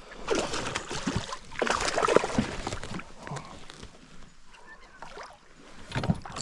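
Water splashing and sloshing beside a kayak in bursts as a hooked bass is fought and brought in.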